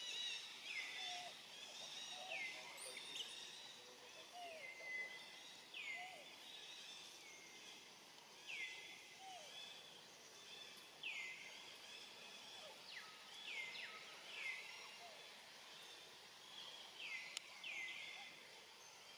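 Faint outdoor ambience with a bird repeating a short call that falls in pitch, about every one to two seconds, and softer, lower calls in the first half.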